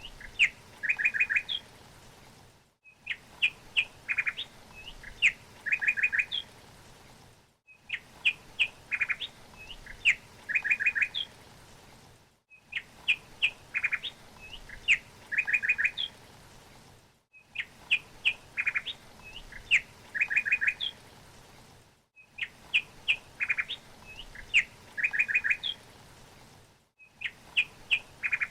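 Small songbird chirping: a few sharp chirps and a quick trill, the same phrase repeated about every five seconds as a looped recording. There is a brief gap of silence between repeats and a faint steady hiss underneath.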